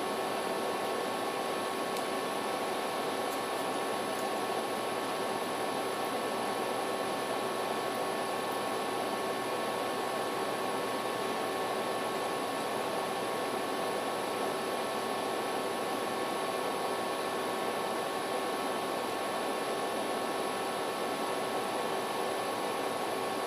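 Steady background hiss with a faint hum of a few fixed tones, unchanging throughout, with no distinct events.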